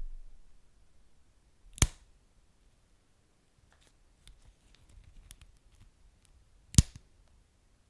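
Wood fire burning in a fireplace: faint scattered crackles, with two sharp, loud pops from the burning wood, about two seconds in and again near the end.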